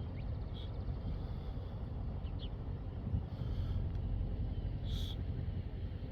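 Steady low rumble of wind on the microphone, with a few short, high bird chirps.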